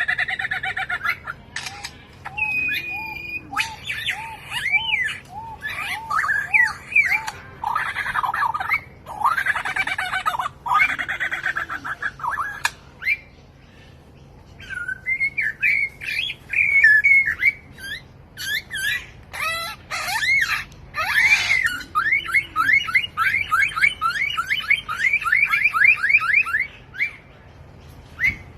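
A songbird singing a long, varied song of whistles, squawky notes and trills, changing phrase every few seconds. It includes a run of evenly repeated notes, a brief pause about halfway, and a fast series of about four notes a second near the end.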